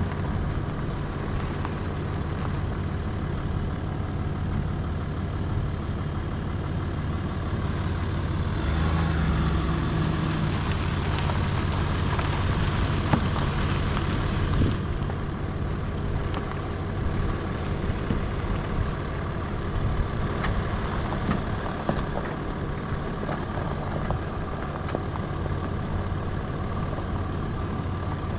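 Land Rover Discovery 4's engine running steadily with a low hum, with scattered small clicks and a broad rush of noise from about eight to fifteen seconds in.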